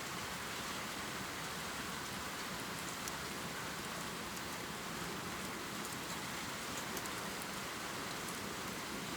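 Heavy rain pouring steadily, an even hiss with faint scattered drop ticks.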